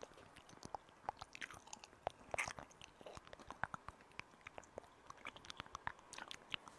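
Close-miked ASMR trigger sounds: a run of irregular sharp clicks and small crunches, a cluster of louder ones about two and a half seconds in.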